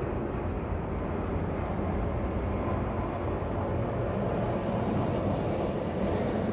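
Steady low rumble and hiss of city ambience, with no distinct events.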